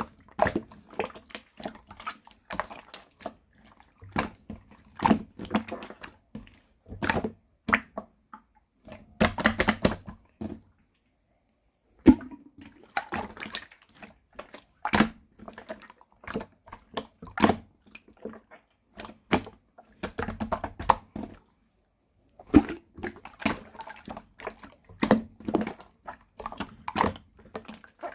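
Hands squishing and poking a soft white slime: irregular bursts of wet squelching and crackling clicks, stopping twice for a second or so.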